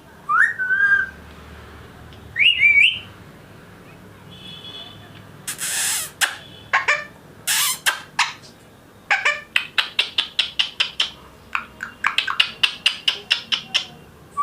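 Whistling and rapid sharp chirps exchanged between a man and a pet Indian ringneck parakeet during a whistling lesson: two short rising whistles with a wavering tail, then runs of quick chirps or clicks at about five a second, with a short harsh burst about six seconds in.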